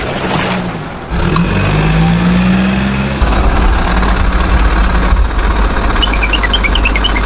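A truck or tractor engine idling and revving, its pitch rising for a couple of seconds, then settling into a deeper steady rumble from about three seconds in. Short high chirps come in near the end.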